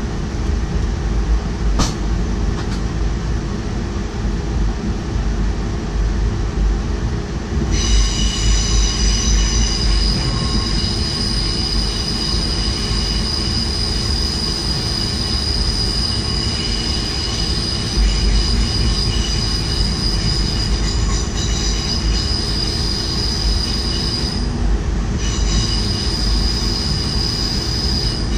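Double-deck DDAR train rolling with a steady low rumble, heard from the driver's cab. About eight seconds in, a high, steady squeal of several tones joins from the wheels on the rails; it drops out briefly near the end and comes back.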